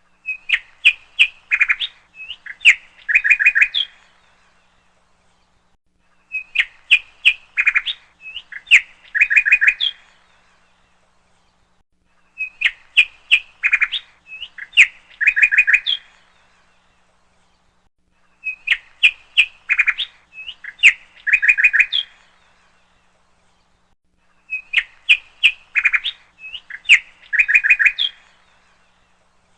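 Bird chirps and trills in a four-second phrase that repeats the same way every six seconds with silence between: a looped bird-song recording.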